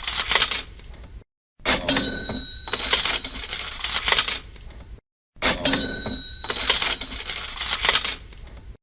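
Looped cash register sound effect: a bell ding followed by a rattle of jingling coins, repeating about every three and a half seconds with a short silent gap between repeats. The tail of one repeat ends just after the start, and two full repeats follow.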